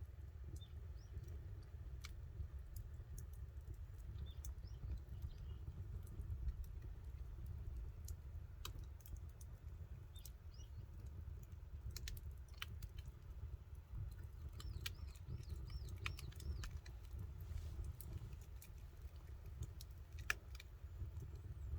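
Campfire burning, the wood crackling with irregular sharp pops and snaps over a low steady rumble.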